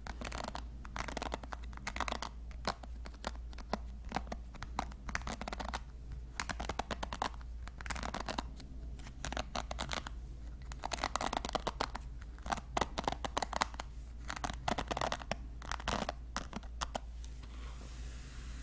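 Hairbrush bristles scratching in repeated strokes, a dense crackle that comes in clusters and fades near the end.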